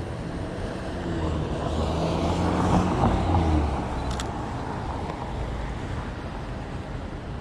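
A motor vehicle passing by on a city street, its engine growing louder to a peak and then fading away, over steady traffic noise. A single short click comes just after it passes.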